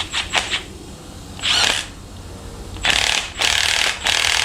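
Handheld power tool run in several short bursts: one a little after a second and a half in, then three in quick succession near the end, with a few light clicks at the start.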